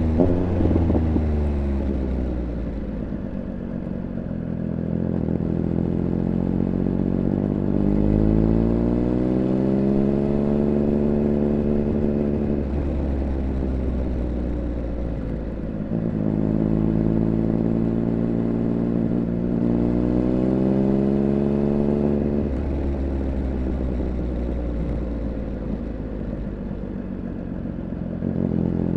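Triumph Speed Triple 1200 RR's three-cylinder engine heard onboard while riding. The engine note climbs through a long pull of acceleration, drops back as the throttle eases, then pulls up again and drops back once more about three-quarters of the way through.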